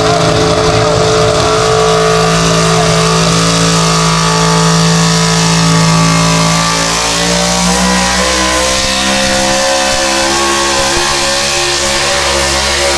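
Engine of a pulling vehicle running loud at high, steady revs, with the pitch dropping about seven seconds in as the revs come down.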